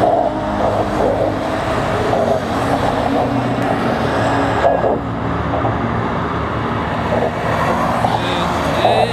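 Tow trucks driving along a highway in procession: steady engine rumble mixed with tyre and road noise.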